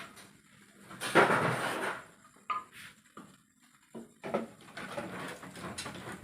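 Household clatter and scraping: a loud rustling scrape about a second in, a few sharp knocks, then more rustling.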